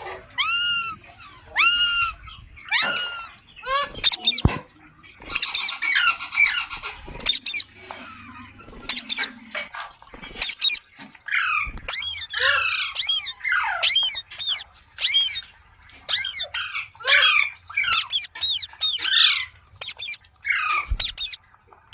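Indian ringneck parakeet calling: a series of loud, arched squawks in the first few seconds, then a busy run of chattering chirps and squawks through the second half.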